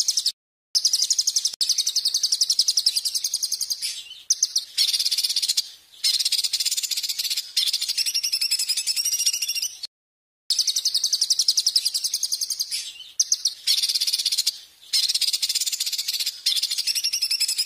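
A songbird calling in very rapid, harsh, high-pitched chattering trills, in bouts of a few seconds separated by abrupt short breaks. This is a masteran recording of noisy bird song used to tutor caged songbirds.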